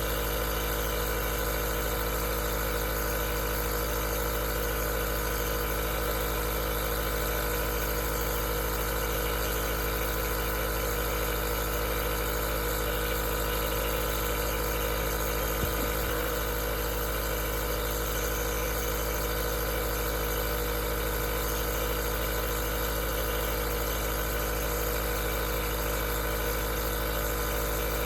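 Aerosol nebulizer's compressor running steadily: an even motor hum with hiss, and a faint tick about halfway through.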